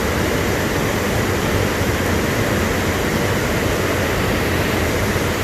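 Steady rushing noise of wind buffeting the phone's microphone, a low rumble that flutters throughout.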